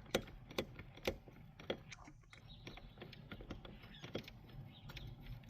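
A loose part under a pickup's dashboard being wiggled by hand: scattered small clicks and creaks at irregular intervals, the play that shows it is really loose.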